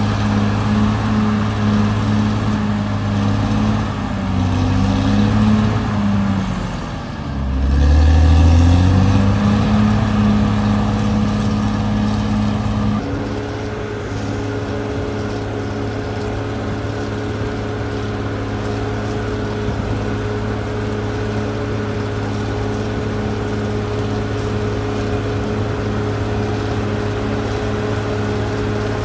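Caterpillar D6R XL bulldozer's diesel engine running steadily. About seven seconds in, the engine note drops sharply and climbs back up, then settles into an even, slightly quieter running for the rest.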